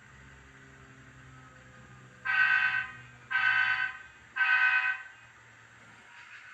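Three short blasts of a diesel locomotive horn from an HO scale GP38-2's Econami sound decoder, played through the model's small speaker, over the decoder's low diesel engine rumble.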